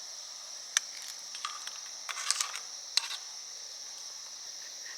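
Crickets chirping in a steady high-pitched drone, with a few light clicks and taps between about one and three seconds in.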